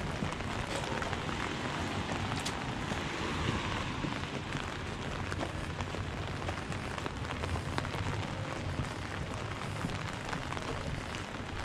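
Steady rain falling on wet pavement, a constant hiss with scattered sharp raindrop ticks.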